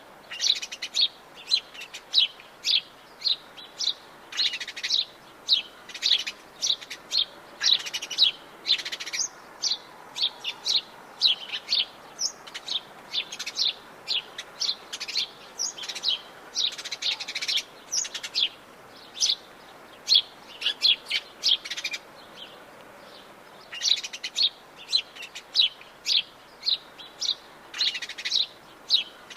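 Forest birds chirping and singing: many short, high chirps in quick succession, with a brief lull about three-quarters of the way through.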